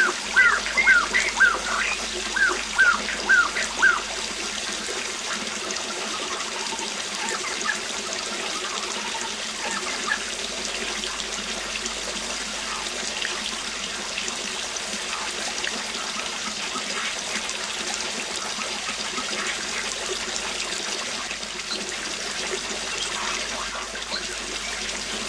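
Steady noise of a waterfall, with a bird singing a quick run of repeated short chirps over it in the first few seconds, then fainter scattered bird calls.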